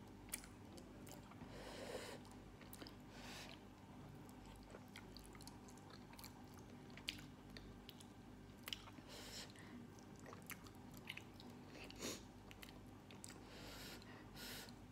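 Faint close-up mouth sounds of someone chewing sweet potato: scattered wet smacks and small clicks, with a bite near the end.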